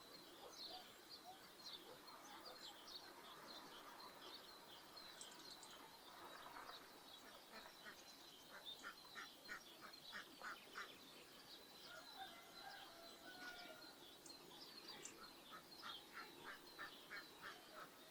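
Faint domestic ducks quacking in two quick runs of calls, about five a second, one starting about eight seconds in and another near the end, over steady chirping of small birds.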